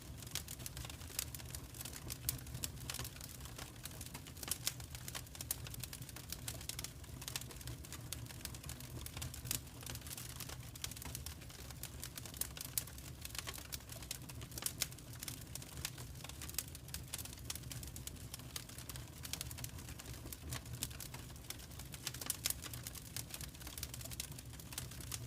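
Wood fire in a fireplace crackling: irregular sharp pops and snaps over a low, steady rumble of the flames.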